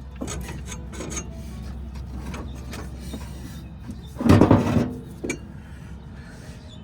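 Hand tools and metal parts clicking and knocking while the smog pump is unbolted from a Chevy small-block engine, with one louder clatter a little over four seconds in.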